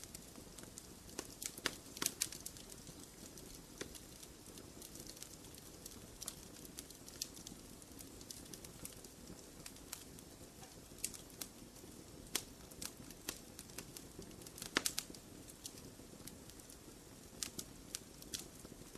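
Wood fire crackling in a fireplace: a soft steady rush under irregular sharp pops and snaps, a few of them louder, around two seconds in and near fifteen seconds.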